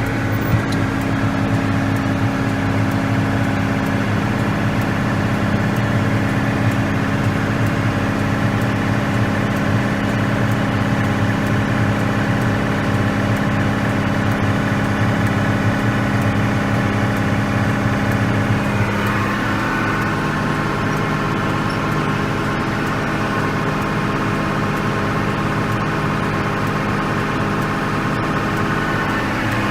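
Farm machinery engine running steadily at harvest; about two-thirds through its note drops slightly and settles at a new steady pitch.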